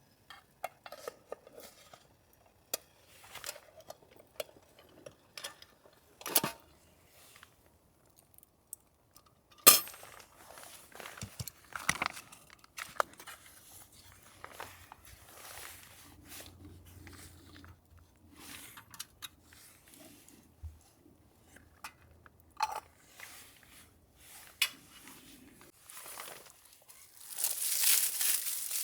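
Scattered clinks and knocks of camp cookware and utensils being handled, with one sharper knock about ten seconds in. Near the end comes a rustling crinkle, like a plastic wrapper being handled.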